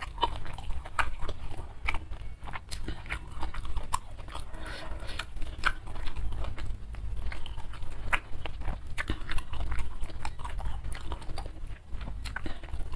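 Close-miked wet chewing and irregular mouth clicks and smacks of a person eating rice and sambal-coated chicken with her fingers.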